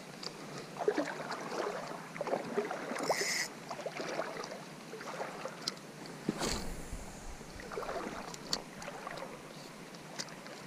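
Wading through a shallow creek: irregular sloshing and splashing of water around the legs, with scattered small knocks and one brief brighter rush about three seconds in.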